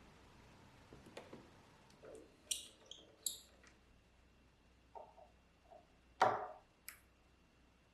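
Scattered light knocks, clicks and short scrapes of tools and parts being handled on a bench. The loudest is a single knock about six seconds in.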